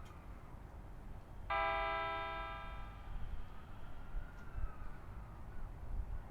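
A single bell-like electronic chime about a second and a half in, ringing and fading over roughly a second and a half, typical of a Japanese station platform chime, over a steady low rumble.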